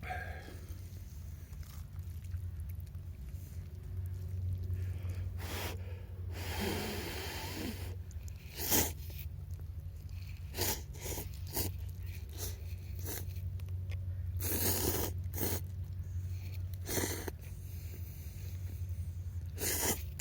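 Knife whittling wood: irregular scraping and shaving strokes, a few longer cuts among short ones, over a steady low hum.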